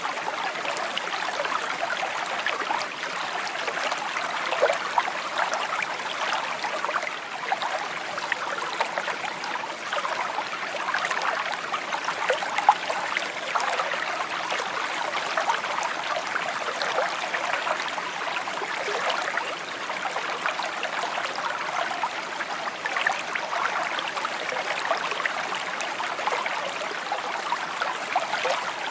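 A small stream flowing over stones, a steady babbling trickle with many small splashes and gurgles.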